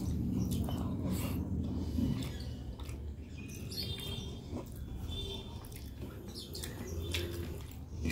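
Close-up eating sounds: wet chewing and lip smacks with many soft clicks as fingers mix rice and fish on a banana-leaf plate. Two brief high chirps come about halfway through.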